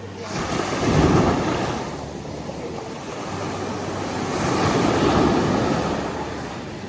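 Waves washing in: two swells of rushing water, one about a second in and another around five seconds in.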